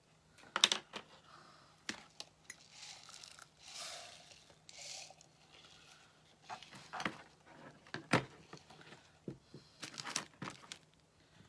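Craft materials being handled on a work table: plastic crinkling and rustling, with scattered light clicks and taps.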